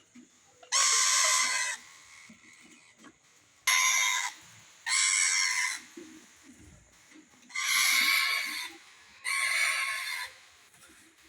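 Indian ringneck parakeet giving five harsh, rasping squawks, each just under a second long, with pauses of one to three seconds between them.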